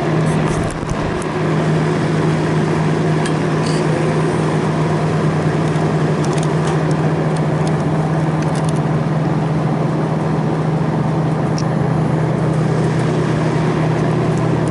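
Refrigeration machinery running with a steady low hum and a constant whir, with a few faint clicks over it.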